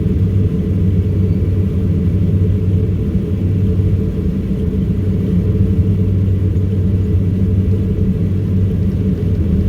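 Embraer EMB-120 Brasilia's twin turboprop engines and propellers droning steadily, heard inside the cabin, with a low propeller hum under a steady rumble.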